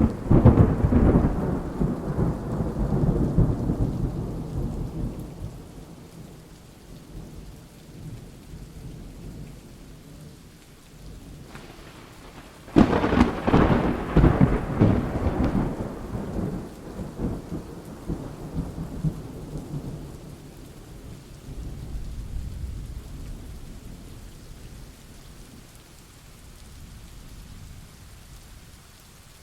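Thunderstorm with steady rain: a clap of thunder breaks right at the start and rumbles away over several seconds, a second sharp clap about thirteen seconds in rolls on for about seven seconds, and a fainter rumble follows.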